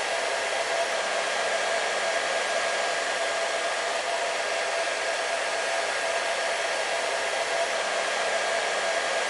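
Hair dryer running steadily: an even rush of air with a steady whining hum over it, unchanging throughout.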